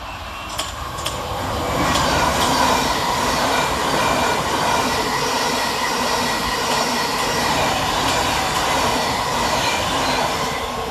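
A Thameslink Class 700 electric multiple unit passing fast through a station. A rush of wheel and rail noise builds over the first two seconds, with a few sharp clicks as it arrives, then holds loud and steady with a faint steady whine, and eases off near the end as the train clears.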